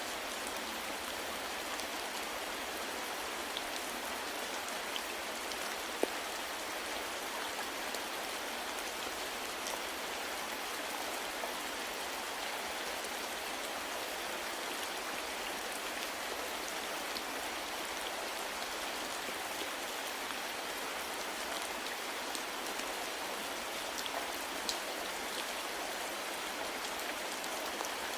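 Steady rain falling, an even hiss with scattered drops ticking on a surface, a sharper drop about six seconds in.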